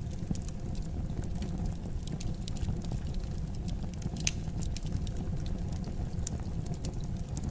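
Fire crackling in a fireplace: frequent small sharp pops over a steady low rumble, with one louder pop about four seconds in.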